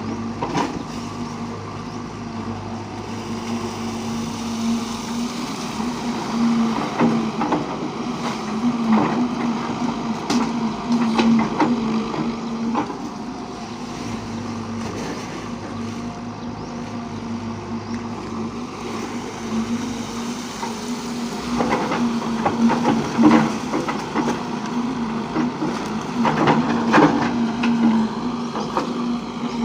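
Engine of a heavy machine running steadily, with repeated metallic clanks and rattles that come thickest in two spells, a few seconds in and again past the middle.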